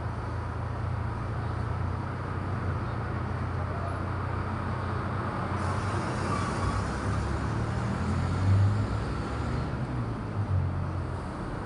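Steady low background rumble with a hum. In the middle a hiss rises for about four seconds, and there are a couple of soft bumps near the end.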